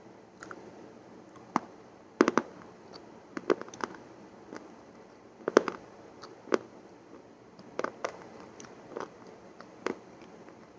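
Crisp, crunchy bites and chewing crunches, irregular sharp cracks with the loudest clusters about two and five and a half seconds in.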